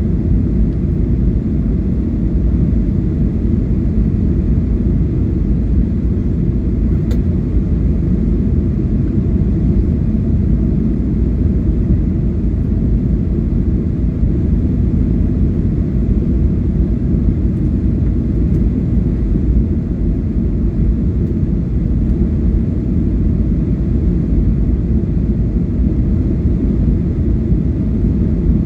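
Steady low rumble of an airliner's engines and airflow heard inside the passenger cabin, unchanging throughout, with one faint click about seven seconds in.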